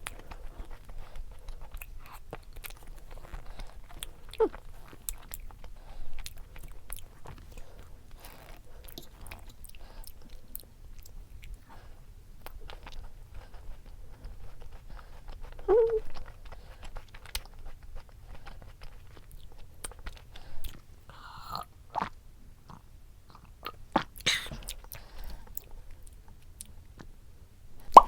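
Close-miked chewing and crunching, with many small crackles and clicks: someone eating a crunchy food.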